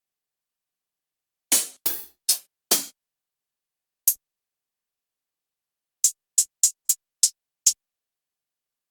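Electronic drum one-shots played one at a time from a sample kit. About a second and a half in come four bright cymbal-like hits with short tails, then a single short tick, then six quick, clipped hi-hat-like ticks.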